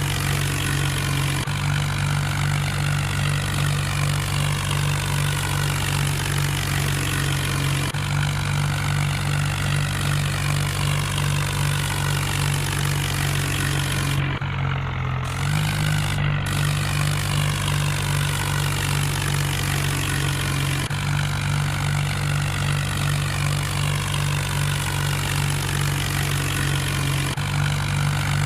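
Mahindra tractor's diesel engine running steadily at constant speed while threshing wheat. The engine note sags briefly about halfway through, then recovers.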